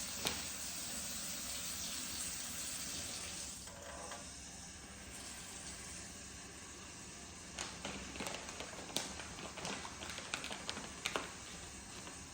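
A pencil-thin trickle of hot tap water running into a kitchen sink's garbage disposal drain: a steady faint hiss that drops a little about four seconds in. Several light clicks and taps come in the second half.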